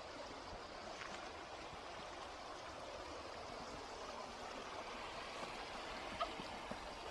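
Steady rush of a small stream's running water.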